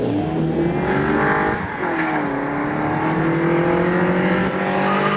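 1991 Nissan 240SX's four-cylinder engine, with an aftermarket intake and a test pipe in place of the catalytic converter, revving hard under load. The pitch climbs, drops sharply about two seconds in as the revs fall away, then climbs steadily again before falling off at the end.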